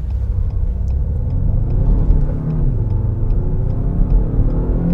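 Renault Megane's 1.3-litre turbocharged four-cylinder engine accelerating hard from a standstill in Sport mode, heard from inside the cabin over a heavy low rumble. Its pitch climbs with the revs, drops back about halfway through as the dual-clutch gearbox changes up, and climbs again.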